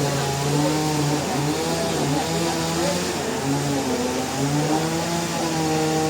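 Sawmill machinery engine running steadily over a hiss, its pitch wavering up and down.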